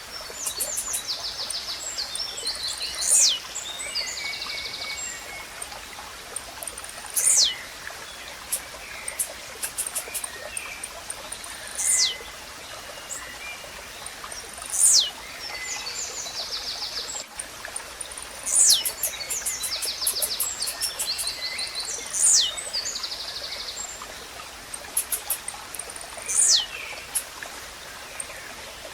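Blue-black grassquit (tizil) singing, a short sharp note falling steeply in pitch, repeated seven times about every three to four seconds. Other small birds chirp and trill between them over a steady trickling stream.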